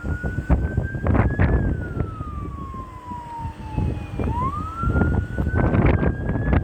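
A siren wailing, its pitch falling slowly for about three seconds and then climbing back up, over loud gusty rumbling from wind on the microphone.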